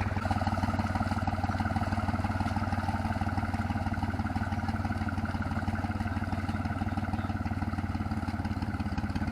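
Yanmar YM3000 tractor's diesel engine running at a steady speed as the tractor levels paddy soil.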